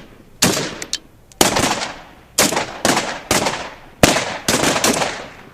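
Gunshots fired singly at uneven intervals, about ten in all, each a sharp crack followed by an echoing tail that dies away over about half a second.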